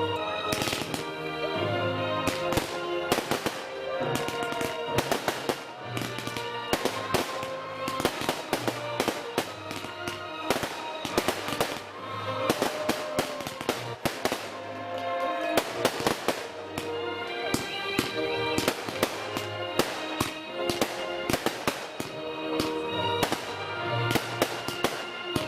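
Fireworks going off in quick succession, with many sharp bangs and crackles, over music playing throughout.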